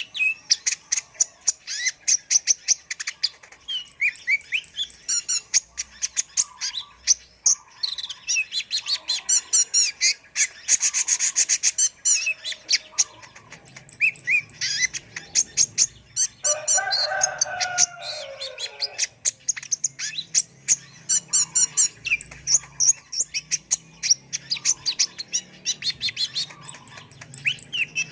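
Kolibri ninja sunbird singing a long, rapid run of high chirps and trills, with no gaps. A lower series of falling notes cuts in about two-thirds of the way through.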